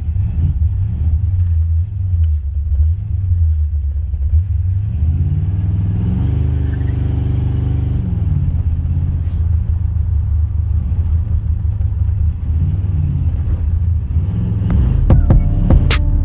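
Car engine and exhaust rumbling heavily inside the cabin while driving, rising in pitch under acceleration about five seconds in and easing off around eight seconds, with another pull near the end.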